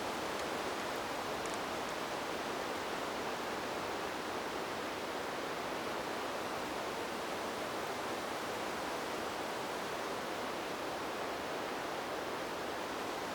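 Steady, even rushing noise, sold as wind blowing through trees; its level holds flat, with no gusts rising or falling.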